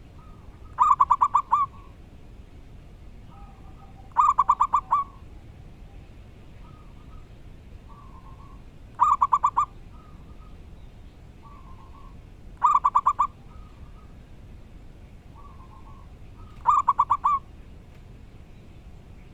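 Zebra doves cooing: five loud bursts of rapid staccato coos, one roughly every four seconds, with softer short coos in between.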